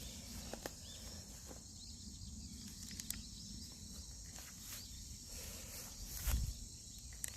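Insects, crickets among them, chirring steadily in a high, even band, over a low rumble. There are a few faint clicks, and a louder dull thump comes about six seconds in.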